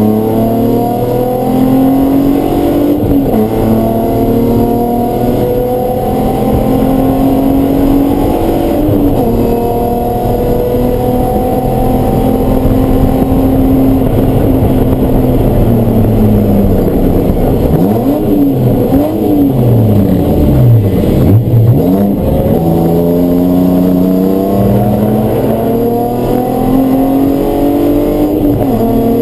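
Race car engine at full song on track, its pitch rising through the gears and dropping at each shift. About two-thirds of the way in comes a run of quick downshifts with the revs dipping and jumping, then it pulls up through the gears again.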